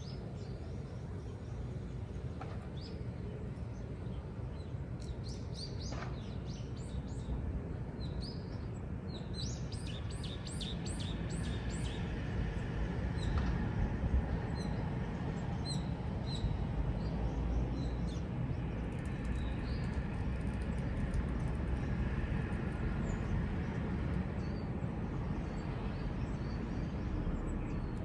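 Small birds chirping, with a quick run of about seven high chirps about ten seconds in, over a steady low outdoor rumble.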